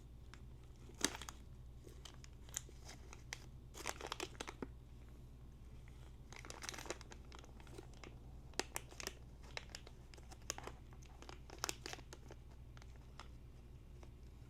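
Hand-handling of motorcycle parts, tools and packaging: scattered light clicks, taps and crinkling rustles, with a few sharper clicks, over a steady low hum.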